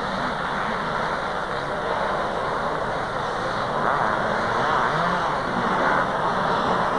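A pack of 500 cc two-stroke motocross bikes racing, their engines running together in a dense mass of sound that gets louder about four seconds in.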